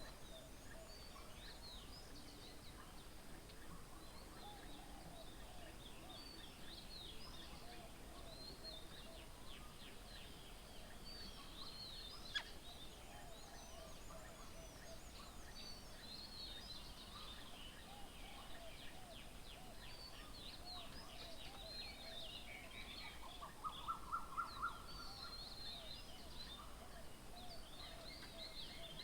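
Several birds chirping and calling in a faint, busy chorus of short high notes. A quick run of about five louder notes comes near the end, and a single sharp click about twelve seconds in.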